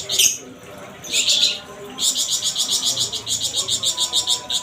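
Caged plamboyan (flamboyan) songbird singing: a short burst, then a fast series of high, rapid repeated chirps of about five or six notes a second, the 'besetan' style that keepers prize in a master bird.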